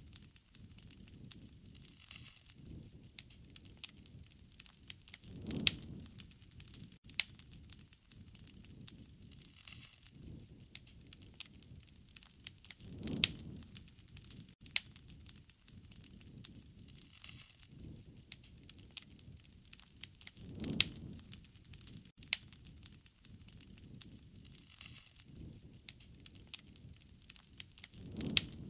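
Wood fire crackling, with frequent sharp pops and snaps over a soft hiss. A low rush swells and fades about every seven and a half seconds.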